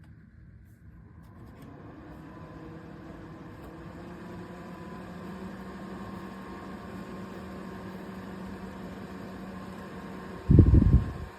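Small electric cooling-fan motor running with a steady hum that grows louder over the first few seconds. A loud low thump comes near the end.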